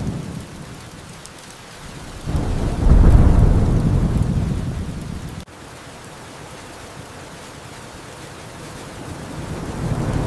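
Steady rain with rolling thunder. A low rumble fades out in the first second, a loud thunder roll begins about two seconds in and cuts off suddenly about five seconds in, and another rumble builds near the end.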